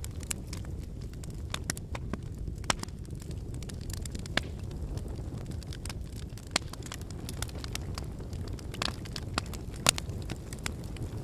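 Wood campfire burning: a steady low rumble of flames with frequent irregular crackles and sharp pops from the burning logs, the loudest pop near the end.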